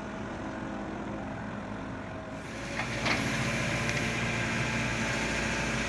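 Kobelco SK03 mini excavator's diesel engine running steadily, growing louder about two and a half seconds in, with a couple of short knocks soon after.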